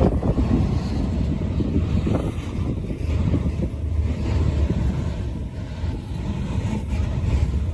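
Long freight train rolling slowly past, a steady low rumble of wheels and cars, with gusty wind buffeting the microphone.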